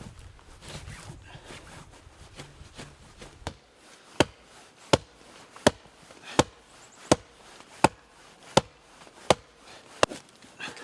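An axe chopping wood: a steady run of about nine sharp blows, roughly three every two seconds, starting a few seconds in.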